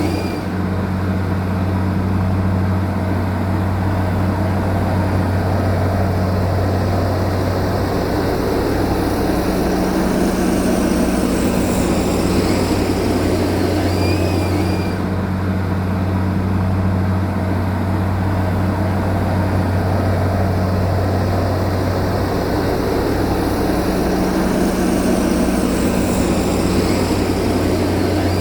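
Heavy diesel engine of an earth-moving machine running steadily with a deep, even hum.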